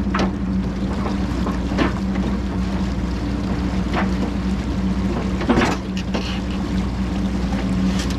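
Caterpillar 420F backhoe loader's diesel engine running steadily, with a few sharp metallic knocks over it.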